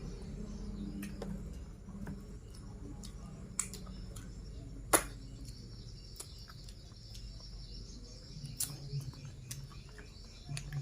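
Close-up eating sounds: chewing and mouth clicks of someone eating chicken and meatballs, with scattered small clicks and one sharp click about five seconds in.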